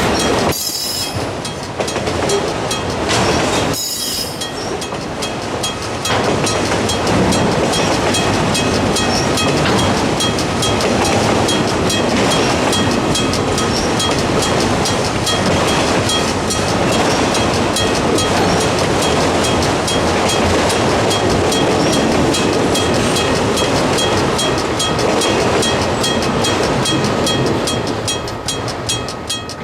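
Freight train cars rolling past at close range: a steady rolling rumble with rapid, regular clicking of wheels over rail joints. There are two brief high-pitched squeals in the first few seconds, and the sound drops off sharply at the very end.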